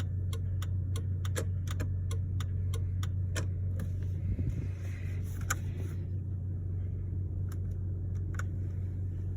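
Turn-signal flasher ticking at an even rhythm, about two to three clicks a second, over the steady low hum of the idling 3800 Series II V6. The ticks thin out after about six seconds.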